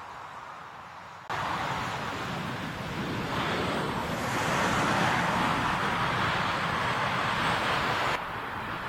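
Jet airliner's engine noise as it passes on its landing approach, a broad rushing sound mixed with wind. It starts abruptly about a second in, is loudest in the middle, and drops suddenly near the end.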